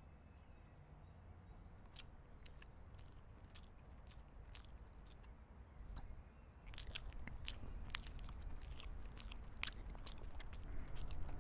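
A person chewing a sandwich with the mouth open: wet smacking and crunching clicks, sparse at first, then quicker and louder from about halfway through.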